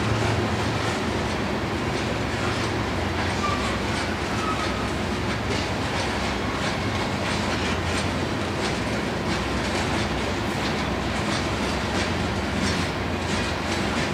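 Coal train's open-top hopper cars rolling past, a steady rumble with the clickety-clack of wheels clicking over rail joints.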